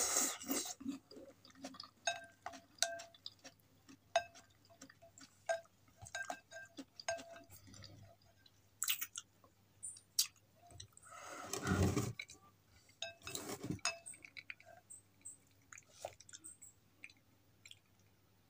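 Close-miked chewing of a mouthful of saucy instant noodles with vegetables, full of small wet mouth clicks and smacks. About eleven seconds in there is one louder, longer noisy sound.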